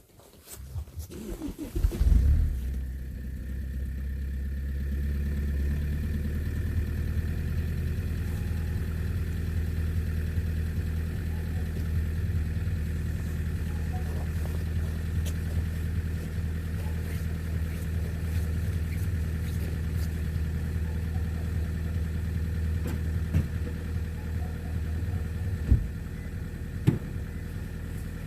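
Toyota Avensis T27's 2.2 D-CAT four-cylinder turbodiesel cold-starting after a day at −12 °C: about two seconds of cranking, then it catches with a brief loud flare and settles into a steady cold idle. Two sharp knocks sound near the end.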